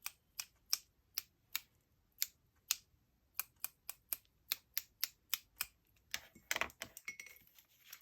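A paintbrush being tapped to flick white gesso splatters onto paper: a series of sharp, light taps, about two to three a second, with a short rustle of handling near the end.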